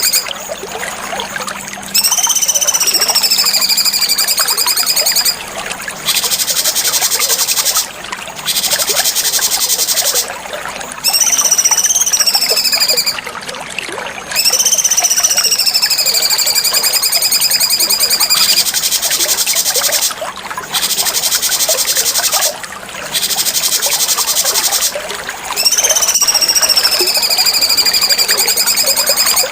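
Cucak cungkok singing loudly in repeated bouts. High whistled phrases rise and then slide down, alternating with rapid buzzy, rattling trills, with short pauses between bouts.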